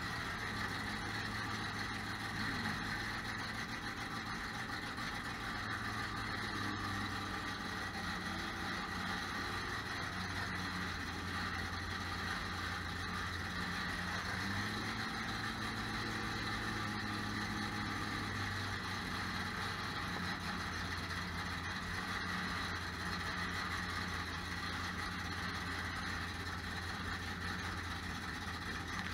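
Drag race car's engine idling steadily, heard from inside the car, its pitch lifting slightly for a few seconds midway.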